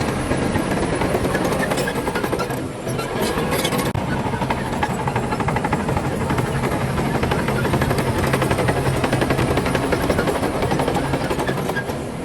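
Diesel engine of a Shantui DH17C2 bulldozer running steadily under load, with a brief dip in level about a quarter of the way in.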